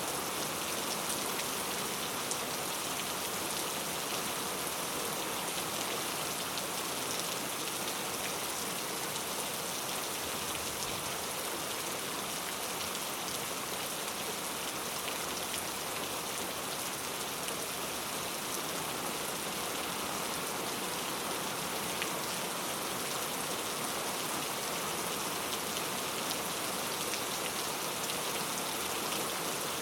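Steady rain falling, a dense even hiss with scattered drop ticks on a hard surface.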